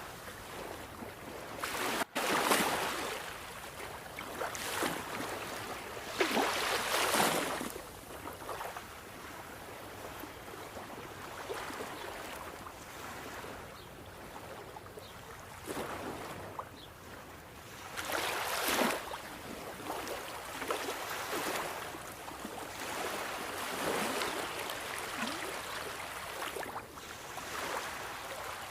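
Sea waves washing in: a continuous wash of water that swells and ebbs in uneven surges a few seconds apart, the strongest about a quarter of the way in and again past the middle.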